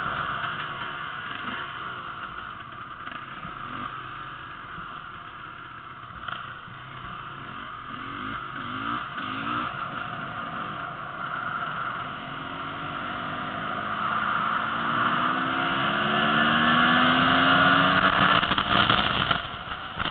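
Enduro dirt bike engine running under way, its pitch rising again and again as it accelerates through the gears in the second half and getting louder, with steady wind noise on the microphone.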